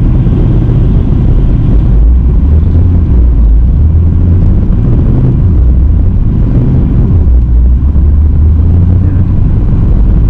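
Steady low drone of a car's engine and road noise heard from inside the cabin while driving, with the engine note wavering slightly.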